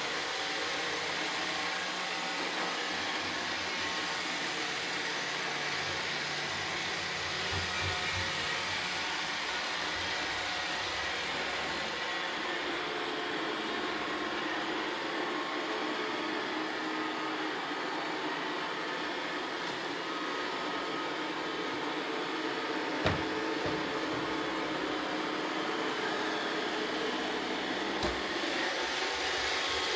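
Roomba robot vacuums running, a steady whir of motors and brushes with a few faint steady tones. Two short knocks come in the last third.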